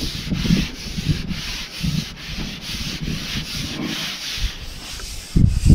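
Wind buffeting the microphone in gusts, with a low rumble under a rough, rubbing hiss.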